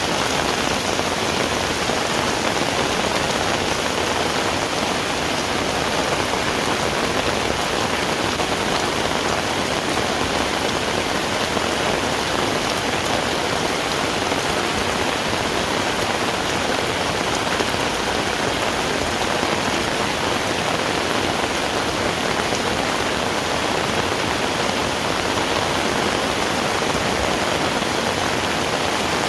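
Heavy rain falling steadily, a dense even hiss of drops on the ground and surrounding surfaces.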